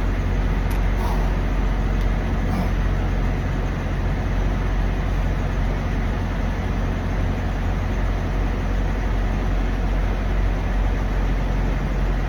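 Steady low rumble of idling diesel truck engines, with a few faint clicks in the first few seconds.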